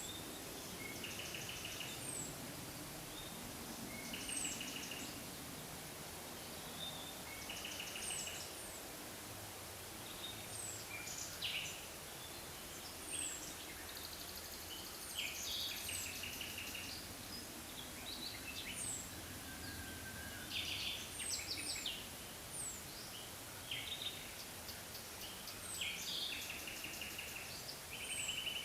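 Songbirds singing over a steady background hiss: short, very high chirps that slide downward, and short trilled phrases repeated every second or two.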